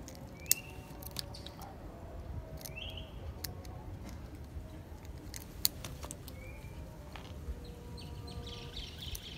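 Outdoor pond-side ambience with a steady low rumble and a few short bird chirps, plus a brief twittering near the end. Two sharp clicks stand out as the loudest sounds, one about half a second in and one a little past halfway.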